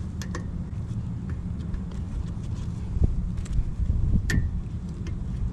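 Steady low rumble with a few scattered metal clinks and knocks, the loudest about three and four seconds in, as a lug nut is started by hand onto a semi-truck wheel stud.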